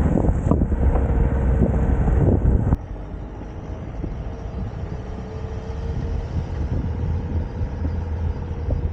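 A vehicle on the move, with a steady engine and road rumble. A little under three seconds in the sound cuts suddenly to a quieter rumble with a faint steady hum.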